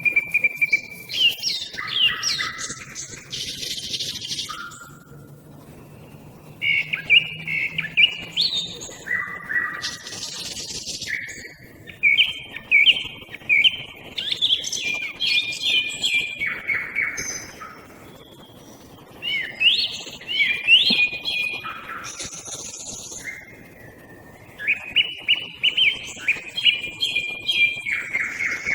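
A song thrush and a nightingale singing against each other. Their song comes in loud phrases of quick, repeated notes, with short pauses between the phrases.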